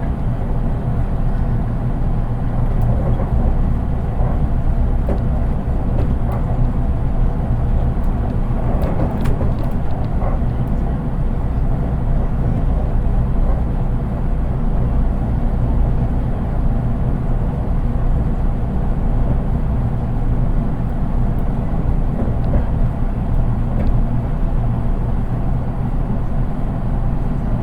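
Interior running noise of a JR East 183 series DC electric multiple unit, heard inside its unpowered driving trailer car (KuHa 183): a steady low rumble of wheels on rail and a few faint clicks about nine seconds in.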